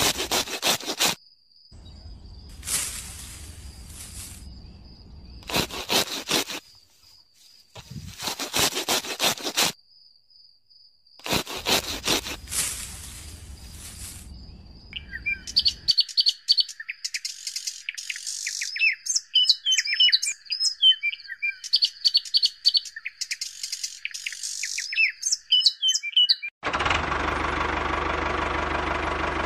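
Birds chirping, after a run of short rushes of noise over a faint steady high tone. Near the end an engine starts up and runs steadily.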